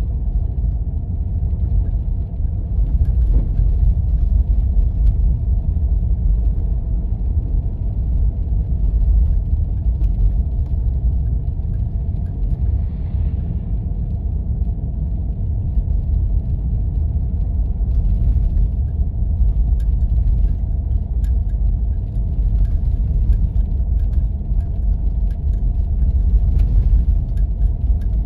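A 4x4 driving on snow-covered roads: a steady low rumble of engine and tyres, with faint scattered ticks.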